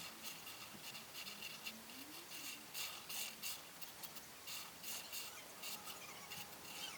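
Colouring strokes scratching on paper: a steady run of short, scratchy back-and-forth strokes, several a second.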